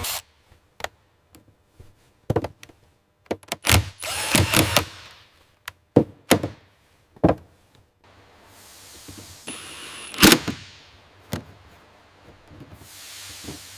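Workshop assembly noises: a string of sharp metallic clicks and clunks as parts are fitted and bolted, with the loudest clunk about ten seconds in. A soft hiss rises and falls between them.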